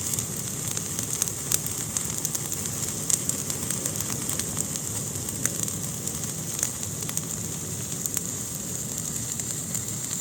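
Fire burning in a fireplace, crackling: irregular sharp pops and snaps over a steady hiss.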